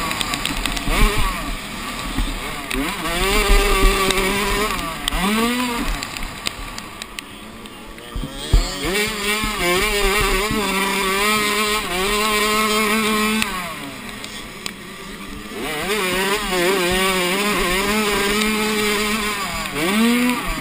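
Minicross motorcycle engine heard from on board, revving up, holding and dropping off repeatedly as the bike is ridden around a dirt track. The pitch falls away twice in quieter off-throttle stretches and climbs sharply again near the end. Wind rumbles on the microphone.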